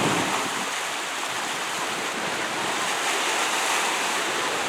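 Steady rushing wash of surf, even throughout with no distinct events.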